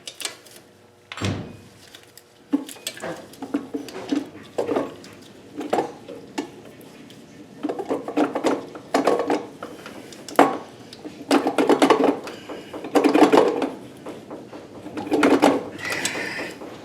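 Irregular metallic clinks, knocks and clattering of hand tools and engine parts being handled during work in an engine bay, in a string of short bursts with one sharp knock about a second in.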